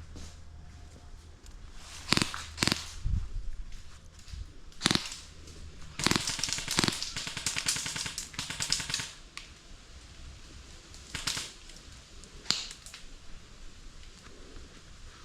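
Airsoft guns firing: single sharp shots about two and five seconds in, a fast string of shots lasting about three seconds from around six seconds, and a few more single shots near the end.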